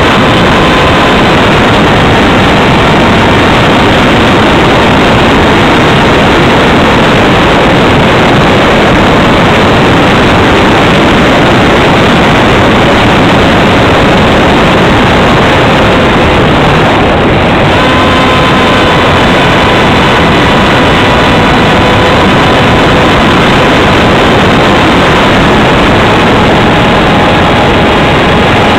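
Loud wind rush over the microphone of an on-board camera on a Radjet 800 RC foam plane, with the steady whine of its electric pusher motor and propeller. The whine drops out briefly about two-thirds of the way through, then comes back at a slightly different pitch.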